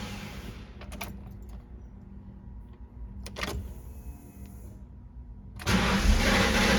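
1995 Ford Mustang GT's V8, with its mass air flow sensor unplugged, fades and dies just after starting, the stall after a second or two of running that is the fault being chased. A couple of sharp clicks and a faint steady hum fill the quiet, then the engine starts again suddenly near the end and keeps running.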